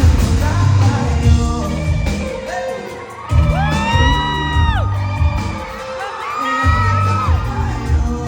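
Live band performance recorded from the audience: drums, bass and singing, with two long held notes in the middle while the drums and bass drop out briefly, and whoops from the crowd.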